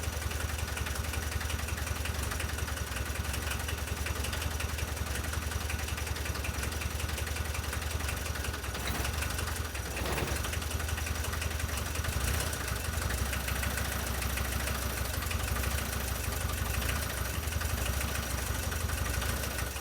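Volkswagen T3's diesel engine idling steadily, on its first run after its diesel injection pump was cleaned and reassembled; it runs but still needs adjusting. It dips briefly about halfway.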